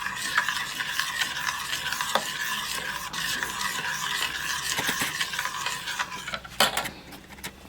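A spoon stirring a thickening milk-and-butter white sauce in a pot on the heat, scraping steadily over a light sizzle, with one sharp knock about six and a half seconds in.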